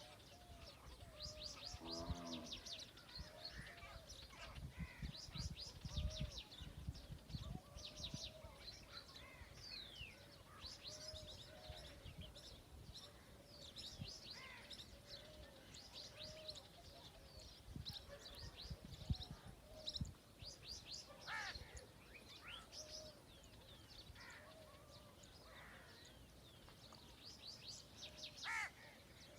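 A chorus of small birds chirping, rapid high quick notes throughout, with a lower, fuller call about two seconds in and another near the end. A few low rumbles come and go in the background.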